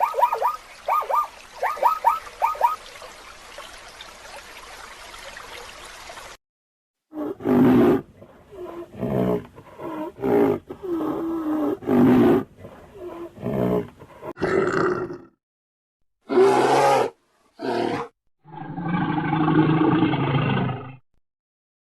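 Animal calls: a quick run of short chirps falling in pitch, then after a pause a series of loud, deep roar-like calls, ending with one longer call near the end.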